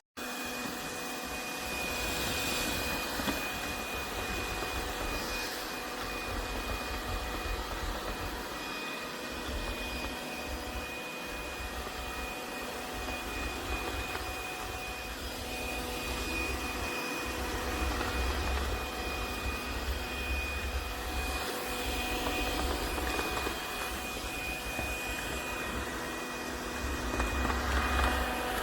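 Laresar Clean L6 Nex robot vacuum running, a steady motor whir with a constant high whine, over a low rumble that comes and goes.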